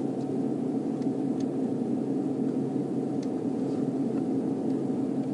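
Steady low rumble of a stopped car's engine idling, with a few faint ticks.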